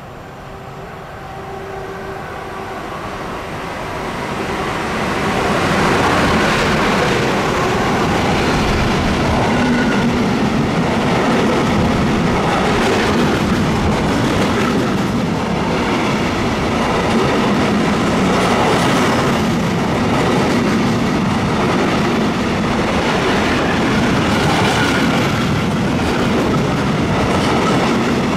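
Freight train of covered sliding-wall wagons passing at speed, wheels rumbling and clattering over the rails. It grows louder over the first few seconds as it comes up and then stays loud and steady as the wagons go by.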